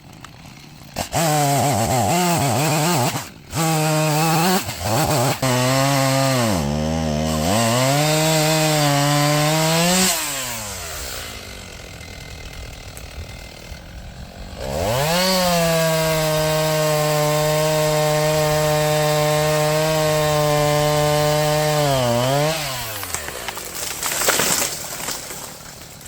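Stihl MS290 Farm Boss two-stroke chainsaw felling a dead tree. It is blipped and revved to full throttle, its pitch sagging as the chain loads up in the cut. It drops to idle about ten seconds in, then runs a second long full-throttle cut before easing back down near the end.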